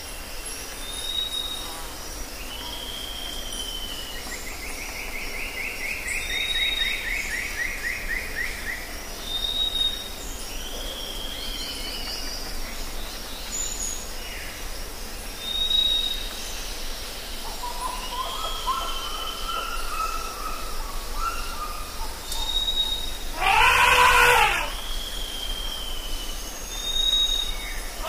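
Several birds calling: a short high whistle repeating every couple of seconds, a long rasping trill, and buzzy chirps. About 24 s in there is a loud harsh call, with a similar one at the very end.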